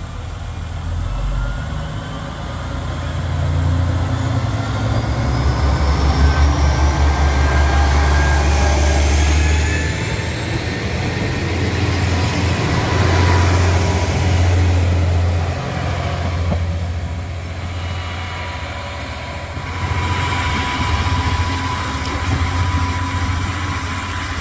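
Diesel train running along the line: a heavy low rumble with a pulsing beat, and a rising whine that climbs as it picks up speed in the first half. Later a steady thin whine runs over the rumble.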